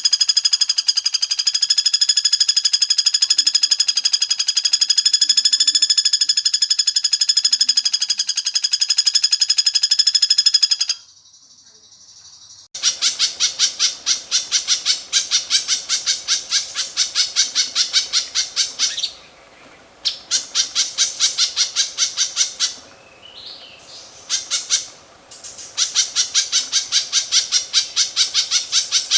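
A songbird's harsh, rapid-fire 'tembak kasar' song: a long, loud, buzzy trill of very fast repeated notes, a brief pause about 11 seconds in, then more runs of rapid harsh notes broken by short pauses.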